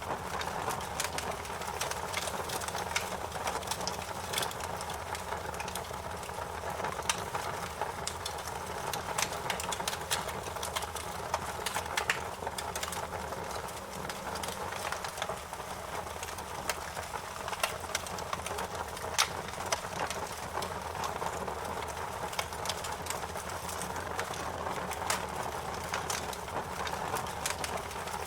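Fire crackling in a fireplace: a steady hiss and low rumble with frequent, irregularly spaced sharp pops and snaps.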